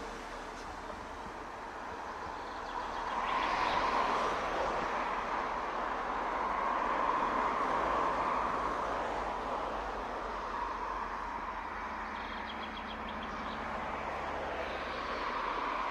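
Regional diesel passenger train running on the track: a steady rushing rumble that swells about four seconds in and again around eight seconds, under a low engine hum, with a short run of quick ticks near the end.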